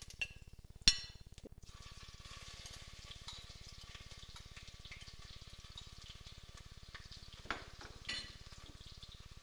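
Whole cumin seeds, then crushed ginger-garlic paste, sizzling in hot oil in a stainless steel pressure cooker: a steady, even frying hiss. A sharp clink about a second in, and a couple of light knocks near the end.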